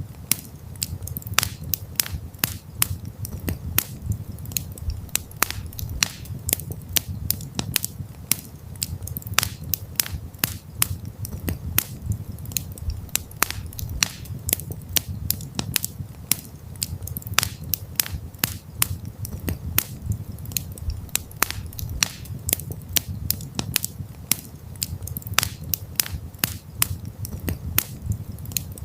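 Campfire crackling: a dense, irregular run of sharp pops and snaps, several a second, over a steady low rumble.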